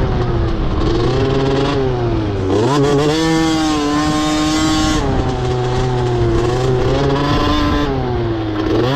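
Motocross bike engine revving on the throttle, its pitch climbing and falling as the rider works through the gears, with a sharp drop and fresh climb about two and a half seconds in.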